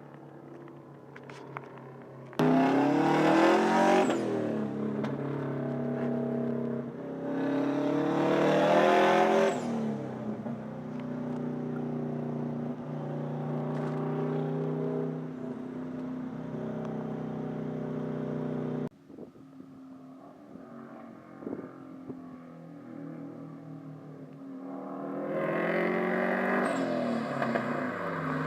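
Subaru WRX STI's turbocharged flat-four engine running through an open midpipe exhaust, loud and revving. It jumps up suddenly a couple of seconds in, sweeps up and down in pitch, then holds steadier stretches. About two-thirds through it drops off abruptly, and it rises again near the end.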